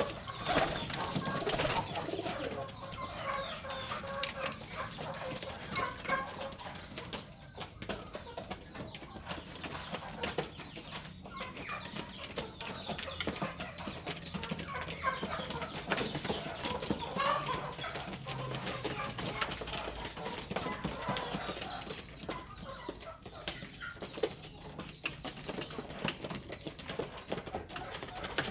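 Domestic pigeons cooing on and off, a low murmuring call, with many small clicks and taps from the birds moving about.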